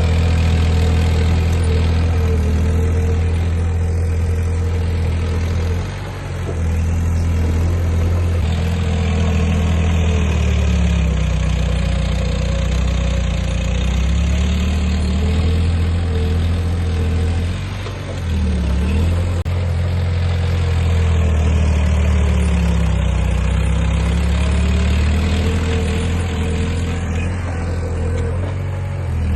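Heavy earthmoving machine's diesel engine running steadily, its speed sagging briefly and picking up again three times: about six seconds in, around eighteen seconds in, and near the end.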